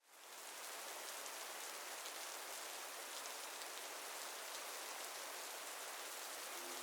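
Steady rain with the patter of fine drops, fading in at the start. Near the end, low sustained music notes come in.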